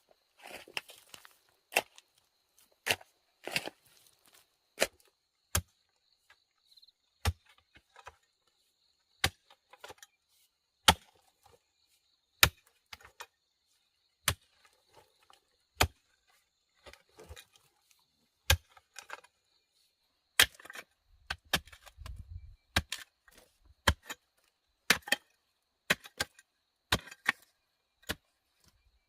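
Repeated sharp chops of a blade into wood, about one a second and unevenly spaced, some strikes coming in quick pairs, with a faint steady high-pitched tone behind.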